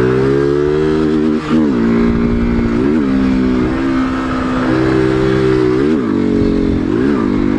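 Motorcycle engine running at steady high revs, with the throttle briefly eased off and reopened four times, the pitch dipping and climbing back each time, over wind rumble on the microphone.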